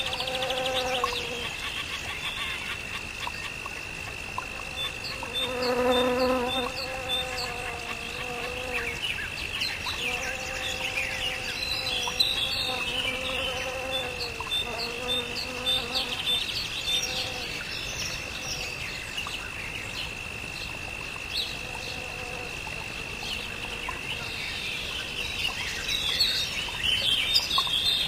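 A steady high insect drone with birds chirping over it, and a lower pitched sound with several overtones coming and going for several seconds early on.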